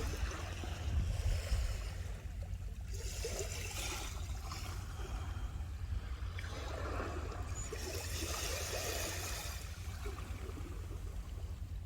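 Sea waves washing onto the beach, swelling up twice and falling back, over a steady low rumble.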